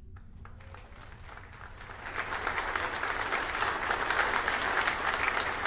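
A room full of people applauding, starting lightly and swelling about two seconds in, as mission control greets the Electron second stage's battery hot swap.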